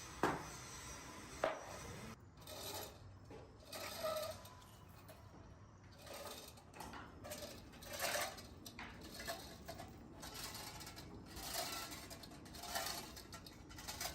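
Two sharp metal knocks, then irregular scraping and clattering of metal being handled.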